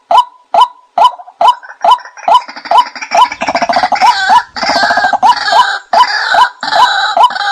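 Recorded call of the Thai 'nok kai na' bird, played as a trapping lure: a regular series of short, clipped notes about two to three a second, joined about a second and a half in by a faster rattling chatter that runs over the notes.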